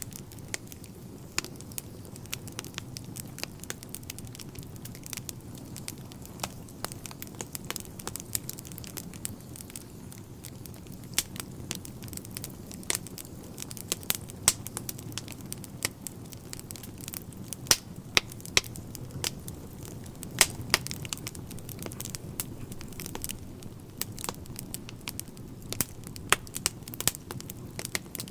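Wood fire burning in a fireplace: irregular crackles and sharp pops of the burning logs over a steady low rush of the flames.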